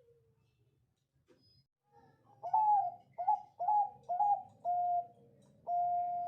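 Zebra dove (Bangkok perkutut) cooing: after about two quiet seconds, a quick run of short coos, then two longer held notes near the end.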